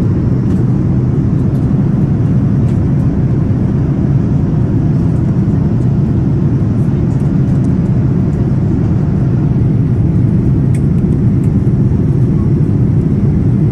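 Steady cabin noise inside a Boeing 777 jet airliner: an even, unbroken rumble and hiss, heaviest in the low range, with no change in level.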